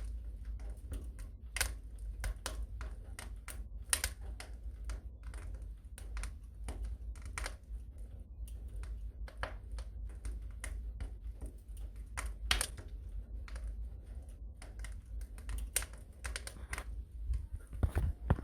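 Wood fire crackling in a fireplace: irregular sharp pops and snaps, several a second, over a steady low rumble, with a quick cluster of louder pops near the end.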